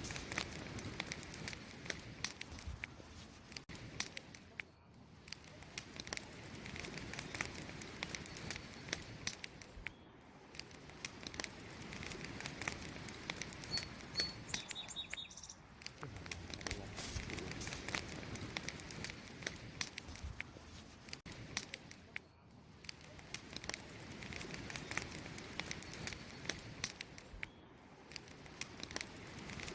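Campfire of burning wood crackling, with dense small snaps and pops over a soft rushing bed. The loudness sinks briefly every five or six seconds and swells back.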